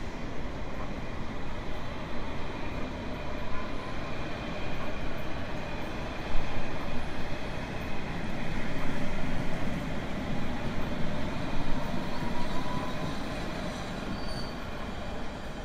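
Train running on the rails: a steady rumble with faint, thin high tones over it and one sharper knock about six seconds in.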